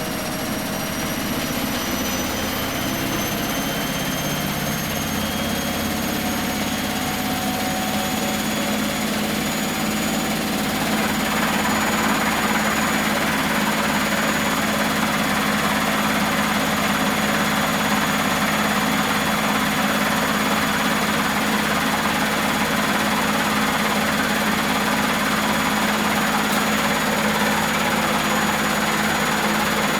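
Miele Professional WS 5426 washing machine spinning its drum up: the motor's whine rises in pitch over the first ten seconds or so. About eleven seconds in it turns louder and noisier, then holds steady at top spin speed.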